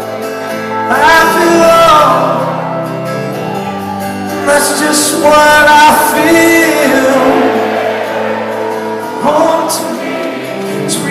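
Live rock band playing: sustained chords with a voice singing drawn-out, gliding phrases over them.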